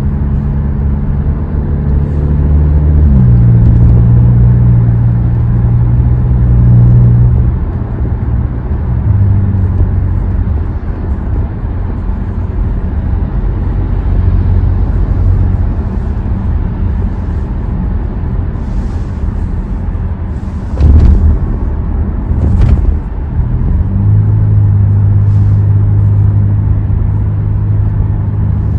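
Hyundai Tucson's engine and tuned exhaust droning with road noise while driving, heard inside the car. The pitch of the drone shifts several times, with two short loud knocks a little over two-thirds of the way through.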